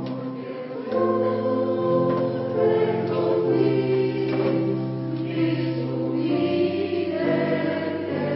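Polyphonic choir singing in several voice parts, holding chords that change about every second.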